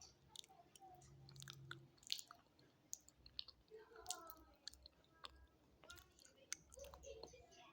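Close-up biting and chewing of brittle chalky mineral sticks, slate pencil and stone: sharp, irregular crunches and clicks, one louder crunch about two seconds in.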